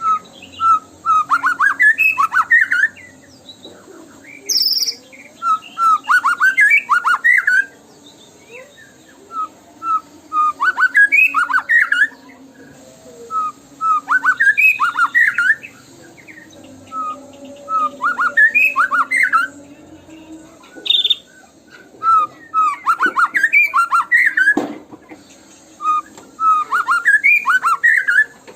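White-rumped shama (murai batu) song: a phrase of quick rising whistled notes, repeated about every four seconds, seven times. It is a lure recording played to get caged shamas to start singing.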